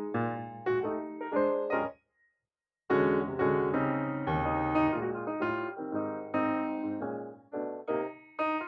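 Background piano music played as separate notes, which stops for about a second and then starts again.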